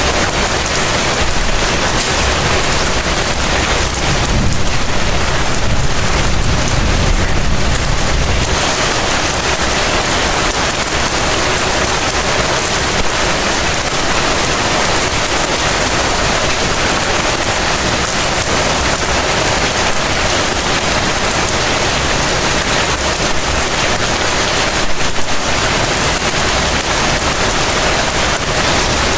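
Heavy rain falling steadily. A low rumble of thunder swells about four seconds in and fades after a few seconds.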